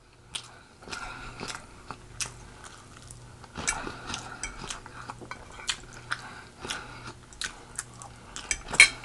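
A person chewing food close to the microphone: irregular wet mouth smacks and small clicks, with one sharper click near the end.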